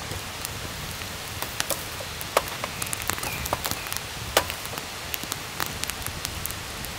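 Wood campfire crackling, with irregular sharp pops over a steady low hiss.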